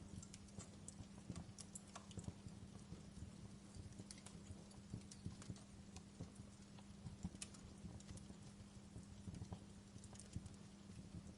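Wood fire crackling in a fireplace: irregular small pops and snaps at an uneven pace, over a steady low hum.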